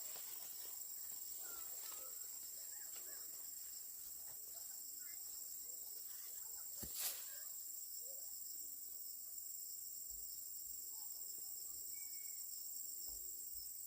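A steady, high-pitched insect chorus, like crickets, with a single sharp click about seven seconds in.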